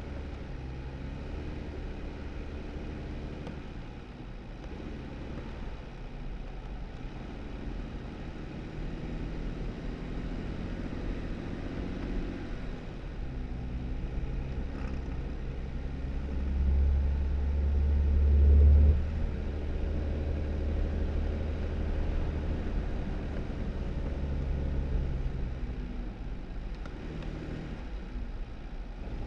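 2018 Jeep Wrangler driving: the engine runs steadily with tyre and road noise, its pitch shifting as the speed changes. Partway through, a louder low rumble swells for about two seconds, then drops off sharply.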